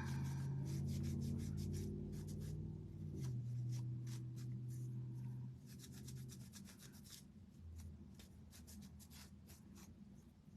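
A baby wipe rubbing burnt umber stain onto a wooden star piece: a run of short scuffing wipes against the wood. A low steady hum underneath fades out about six seconds in.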